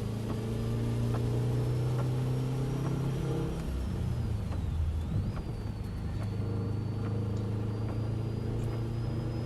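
Car engine heard from inside the cabin while lapping a wet track, holding a steady note, easing off briefly about four to five seconds in and then building again.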